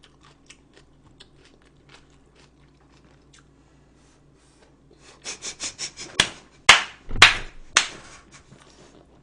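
Close-miked eating sounds: faint mouth clicks, then from about five seconds in a quick run of short crunchy chews followed by several loud sharp clicks.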